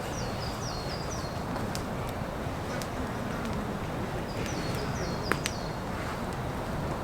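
Steady rain hiss with a songbird singing two quick runs of short falling notes, one near the start and one about two-thirds in. A few sharp ticks are heard, with the loudest pair just after the second run.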